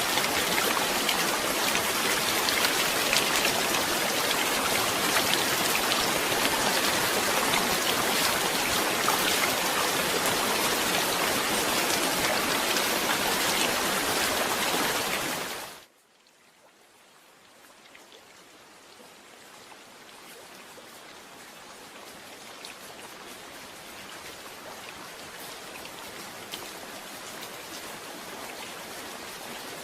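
Steady heavy rain falling, a dense even hiss, which fades out quickly about halfway through. Softer rain then fades back in slowly and grows gradually louder.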